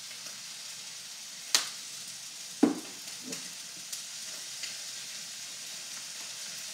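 Fried rice and vegetables sizzling steadily in a hot wok, with sharp knocks and lighter clicks from stirring; the loudest knock, with a short ring, comes a little under three seconds in.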